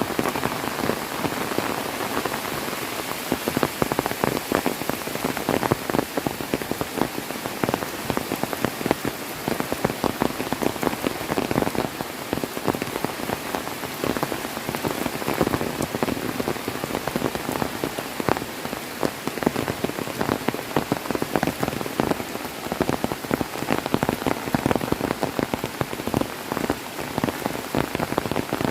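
Heavy rain falling steadily, a dense patter of drops striking a hard surface close by.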